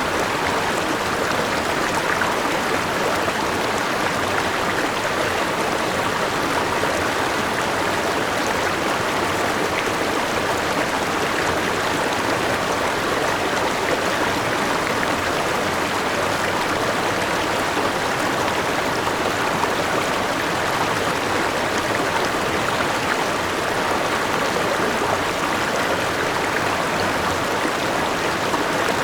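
Forest river rushing and splashing over rocks and a small waterfall: a steady, even rush of flowing water.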